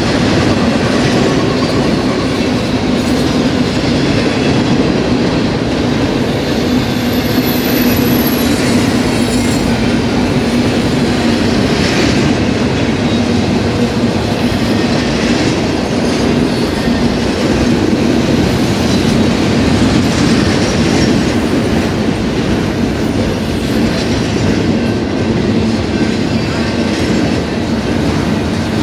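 Steel wheels of a Union Pacific double-stack intermodal train's loaded well cars rolling past close by: a loud, steady rumble on the rails with clickety-clack and a brief thin wheel squeal about seven seconds in.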